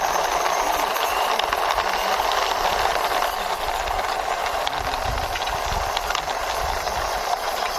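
Toy fire truck pushed along by hand, its small wheels rolling with a steady, even rolling noise and light rattle.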